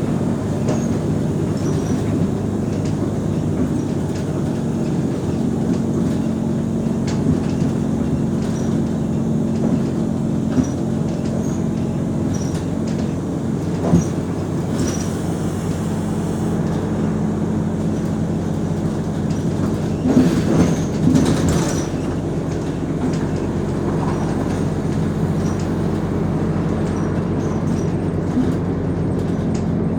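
Mercedes-Benz O345 Conecto G articulated bus running with a steady diesel engine drone, with a sharp knock about halfway through and a short cluster of rattles about two-thirds of the way in.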